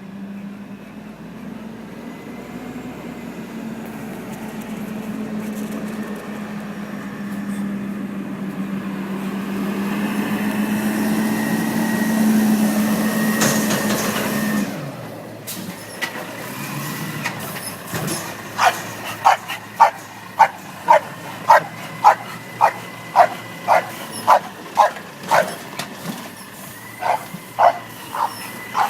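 A garbage truck's engine running as it approaches, a steady drone growing louder for about fifteen seconds and then cutting off abruptly. Then, about two-thirds of the way in, an English bulldog starts barking repeatedly, nearly two barks a second.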